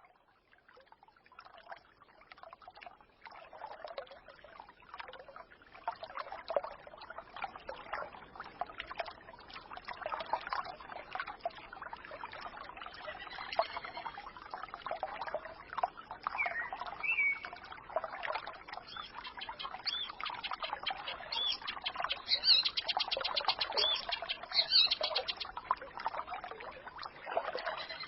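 Small forest stream gurgling and trickling over stones, fading in from silence over the first few seconds, with birds chirping above it. A fast, high bird trill comes about two-thirds of the way through.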